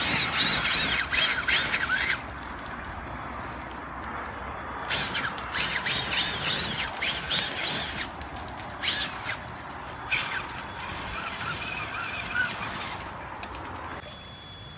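Electric motor of a Traxxas Summit RC truck whining in three throttle bursts, the pitch rising and falling, over a steady background hiss.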